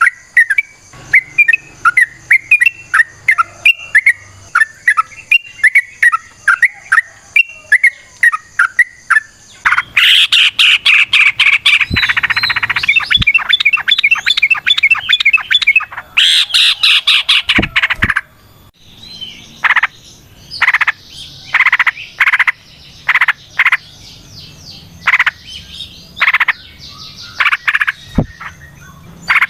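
Yellow-vented bulbul calling: a quick series of short chirps, breaking about ten seconds in into a long, loud, dense chattering run, then separate spaced notes.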